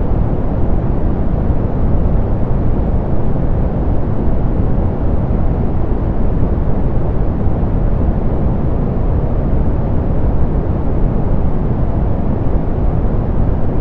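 Steady, softened pink noise: an even hiss weighted toward the low end, with little treble, unchanging throughout.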